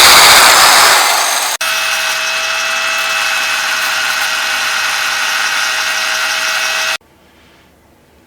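A loud, noisy woodworking power tool fades out in the first second and a half. After a sharp break, an electric power tool such as a drill runs steadily with a whine, then cuts off suddenly about seven seconds in.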